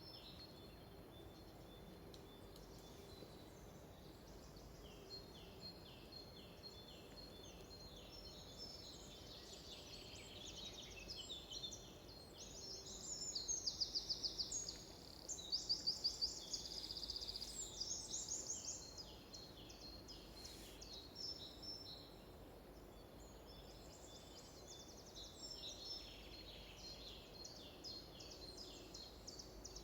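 Several songbirds singing at once, with overlapping chirps and trills. The loudest is a fast run of repeated notes a little under halfway through.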